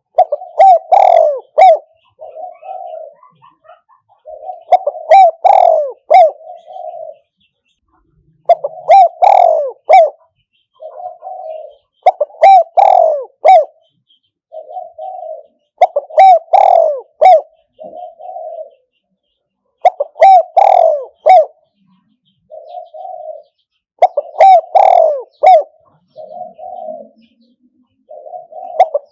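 Spotted dove (Thai nok khao yai) cooing, the call of a caged decoy bird: eight phrases about four seconds apart, each a loud run of low coos followed by a softer coo.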